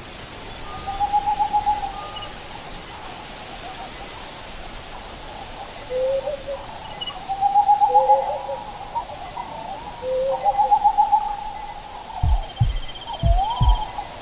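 Owl hooting: a series of wavering hoots, some at a lower pitch. Near the end, deep thumps in pairs like a heartbeat come in under the hoots.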